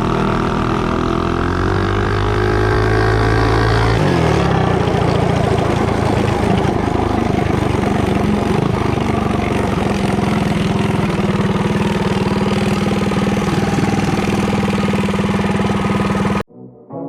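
Mini bike engine with a torque converter pulling hard, its pitch rising for about four seconds, then holding high revs with a steady rush of noise through a run, with the red spring in the driven pulley. The sound cuts off abruptly near the end, and brass music starts.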